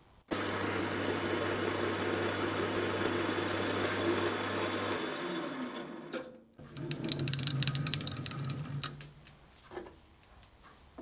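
Metal-turning lathe running while it takes a cut along an aluminium bar. The sound breaks off sharply about six seconds in, runs again for a couple of seconds, then drops away to a few light clicks.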